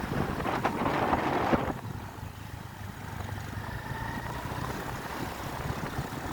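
Motorcycle engine running while riding, with wind buffeting the microphone. A louder rush of noise fills the first second and a half, then drops away.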